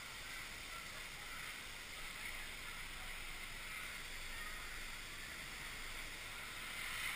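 Steady wash of rushing water from the water park below, an even hiss with no distinct events.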